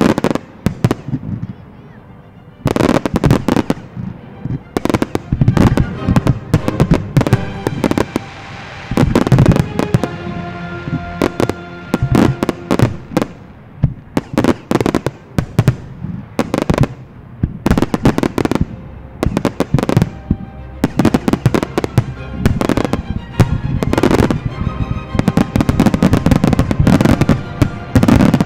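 Fireworks display: aerial shells bursting in rapid, dense volleys of sharp bangs and crackles, after a brief lull just after the start. A music soundtrack plays underneath.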